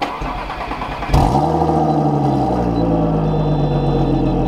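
Audi B8 S4's supercharged 3.0-litre V6 cold-starting: the starter cranks for about a second, then the engine catches with a loud flare through the exhaust and settles into a steady cold idle.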